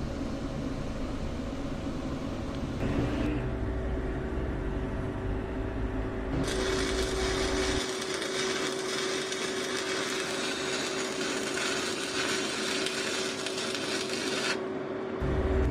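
Stick-welding arc with a coated electrode, crackling and hissing steadily for about eight seconds; it strikes about six seconds in and breaks off near the end. A steady hum runs underneath.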